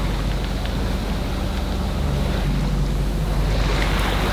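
Wind buffeting the microphone and water rushing along the hull of a sailing yacht under way, over a low steady drone.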